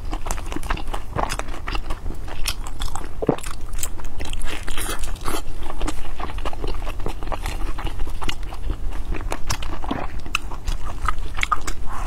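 Close-miked chewing and biting of buckwheat steamed buns in a fried egg layer: irregular mouth clicks and soft crunches throughout.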